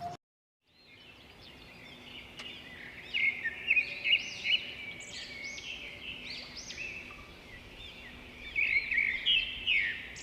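Several small birds chirping and twittering at once, short high calls overlapping one another, busiest a few seconds in and again near the end.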